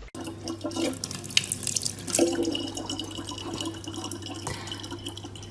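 Water running from a tap and splashing, over a low steady hum.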